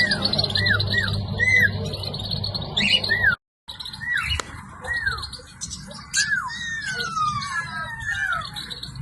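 Birds calling: a run of short arched chirps repeated about twice a second, then, after a brief dropout, longer falling whistles and chattering calls, over a steady low hum.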